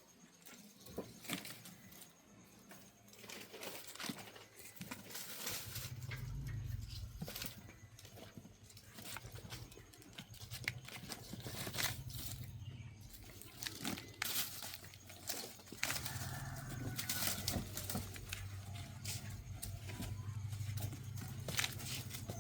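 Rustling, crinkling and pattering of kittens playing with a dry coconut leaf, with many scattered small clicks and taps. A low steady hum comes in about six seconds in and carries on under the rustling.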